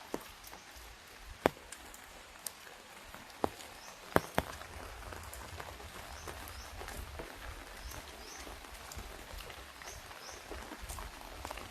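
Light rain falling, with occasional large drops striking an umbrella as sharp single taps, the loudest a few seconds apart. A bird gives short high chirps in pairs every couple of seconds, and a low rumble sets in about four seconds in.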